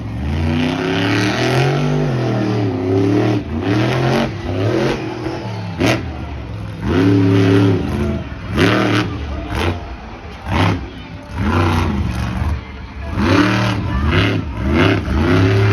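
Monster truck engine revving hard, its pitch rising and falling again and again as the throttle is worked, with a few sharp bangs in between.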